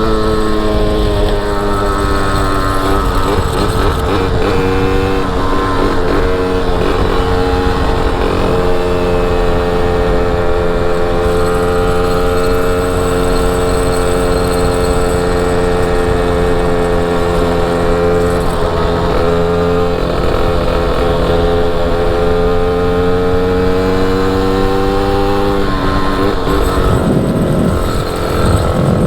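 Derbi motorcycle engine running under way at a steady cruising speed. Near the end its pitch drops as the bike slows, then rises again.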